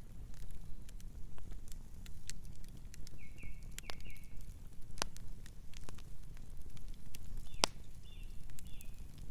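Wood fire crackling, with frequent small snaps and a few sharp louder pops over a low steady rumble. A bird chirps in two short runs of quick notes, about three seconds in and again near the end.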